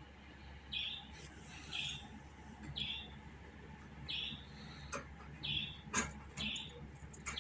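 Budgerigar giving a series of short chirping calls, about one a second, with a few sharp clicks in the second half.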